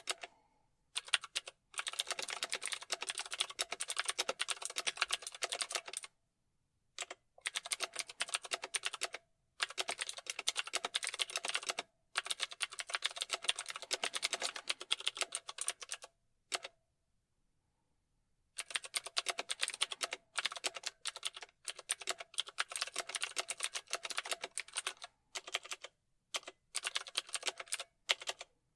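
Fast typing on a computer keyboard: rapid runs of key clicks lasting a few seconds each, broken by short pauses, the longest about two seconds long past the middle.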